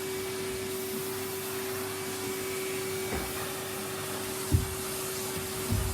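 Henry canister vacuum cleaner running steadily with a constant motor hum while sucking up dust. Two short low thumps sound in the last couple of seconds.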